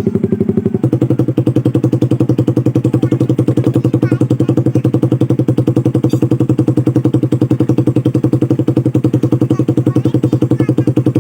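Suzuki Satria FU 150's single-cylinder four-stroke engine idling through its exhaust, a steady, evenly pulsing note. About a second in, the note steps up slightly and then holds steady.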